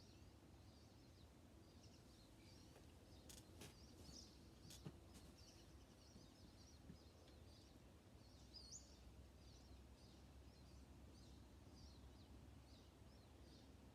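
Faint, scattered chirping of small birds over a low background hum, with a rising chirp about nine seconds in. A few faint clicks come between about three and five seconds in.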